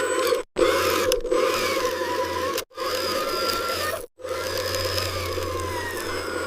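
Whirring of small electric motors and gears from radio-controlled construction models, with gliding whines that rise and fall and a scraping, rasping noise. It comes in short stretches broken by abrupt silent cuts, three times.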